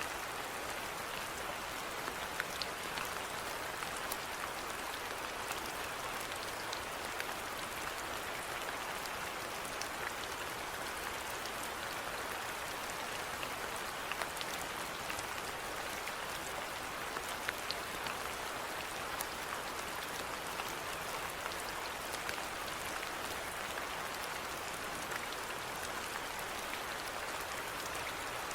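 Steady rainfall: an even hiss with scattered sharper drop ticks, constant in strength.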